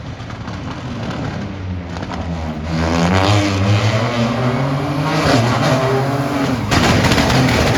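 Competing rally car approaching at speed, its engine revving hard with pitch dropping and climbing again through gear changes. It grows louder over the first three seconds and is loudest about seven seconds in as it passes close.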